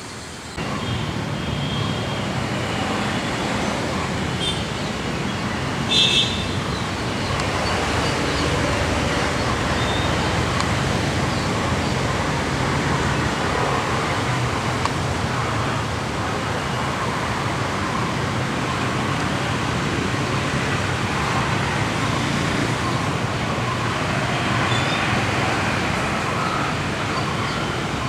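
Steady road-traffic noise, with a short high-pitched sound about six seconds in.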